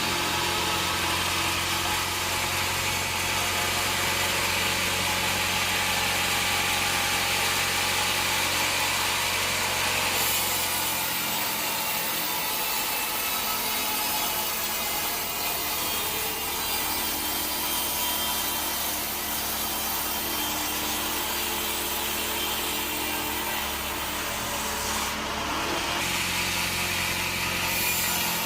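Bandsaw sawmill running, its blade cutting lengthwise through a teak log: a steady motor hum under a loud high hiss of sawing, which shifts about ten seconds in as the low motor tones drop away and return near the end.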